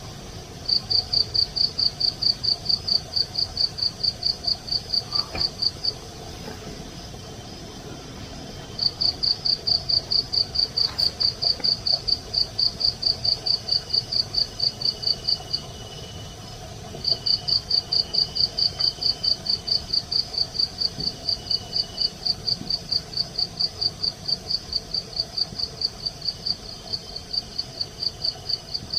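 Cricket chirping at about five chirps a second in long runs, with pauses of a few seconds about six and fifteen seconds in.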